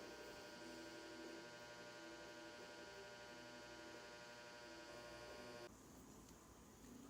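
Near silence with a faint, steady electrical hum made of many even tones, which cuts off suddenly just before the end.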